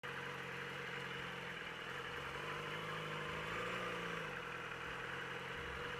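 Yamaha R6 sportbike's inline-four engine running at low revs, with a brief small rise in pitch about three and a half seconds in before it settles again.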